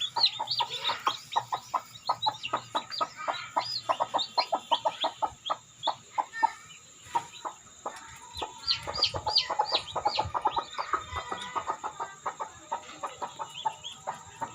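Newly hatched parrot-beak chicks peeping in a steady stream of short, high calls, mixed with shorter, lower clucks from the broody hen they hatched under.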